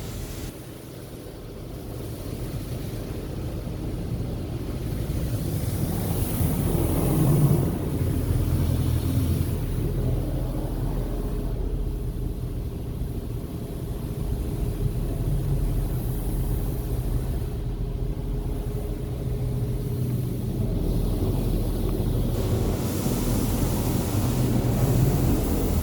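Ryko Radius HT touchless car wash machinery running, heard from inside the van's closed cabin as a steady low rumble. It swells louder about seven seconds in and again near the end.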